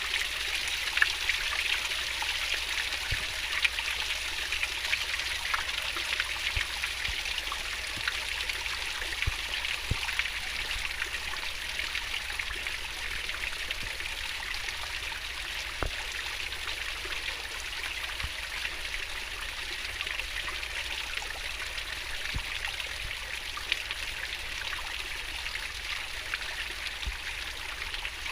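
Stream water flowing fast and babbling over stones: a steady rushing splash with small droplet plinks scattered through it.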